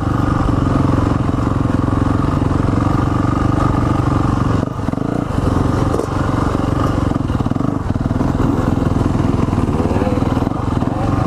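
Dirt bike engine running at a low, steady pace at trail-riding speed, with short drops in level about four and a half, six and ten and a half seconds in, as the throttle is briefly rolled off.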